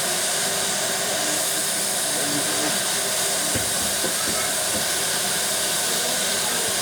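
Steam locomotive letting off steam: a steady, even hiss.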